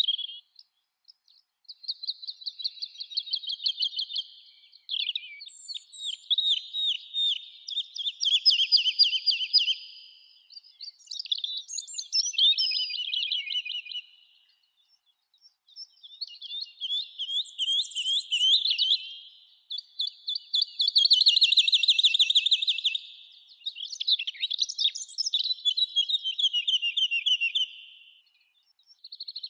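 Songbirds singing in the forest: repeated song phrases of rapid trilled notes, each a few seconds long with short pauses between, and a few higher chirps over them.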